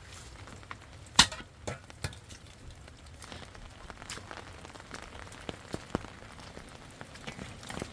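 Rain pattering, with scattered drop-like ticks and one sharp knock about a second in.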